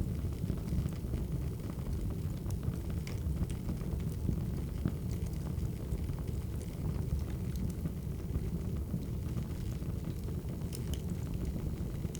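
Wood fire crackling: a steady low rumble of burning logs with scattered small pops and snaps.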